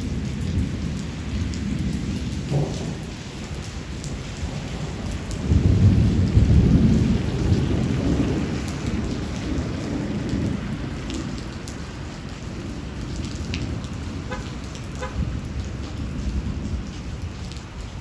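Steady rain with rolling thunder. A louder thunder rumble swells about five or six seconds in and slowly fades away.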